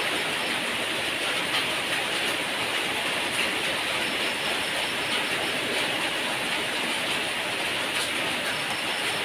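Heavy rain falling, a steady even hiss with an occasional faint tick.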